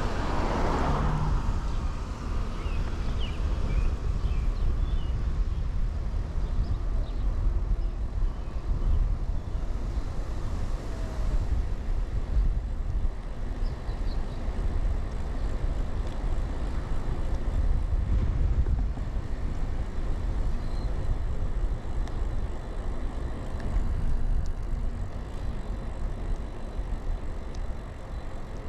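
Steady low rumble of riding a 2000 Kona Blast bicycle: wind buffeting the chest-mounted microphone and the tyres rolling on pavement. There is a brief brighter hiss in the first second.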